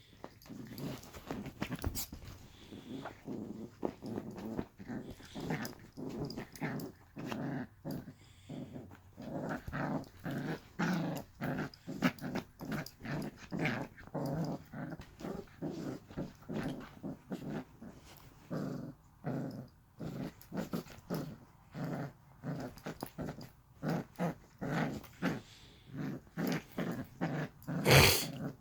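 Puppy growling in play: a long, near-continuous run of short growls and grunts, with a loud sharp knock near the end.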